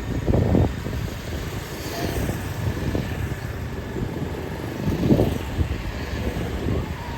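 Street noise: a steady low rumble with two louder swells, about half a second in and again about five seconds in.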